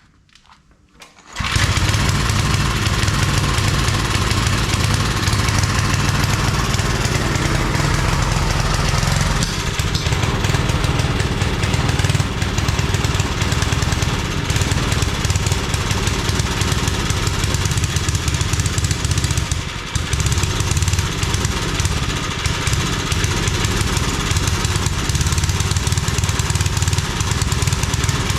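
Old Briggs & Stratton 5 hp engine on a homemade wood splitter, started without choke, catching about a second in and then running steadily. It dips briefly twice.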